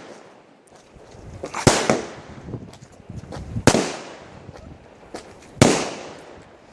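Fireworks going off: three loud bangs about two seconds apart, with smaller pops and crackling between them.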